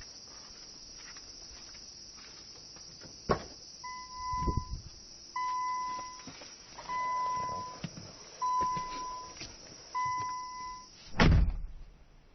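A click, then five evenly spaced electronic warning beeps about a second and a half apart, from a car's warning chime. A loud thud, like a car door shutting, follows near the end.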